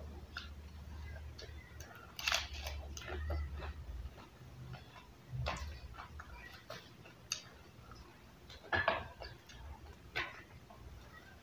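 Fresh lettuce leaves being bitten and chewed, with crisp crunches and snaps coming irregularly a second or two apart, plus a low hum under the first few seconds.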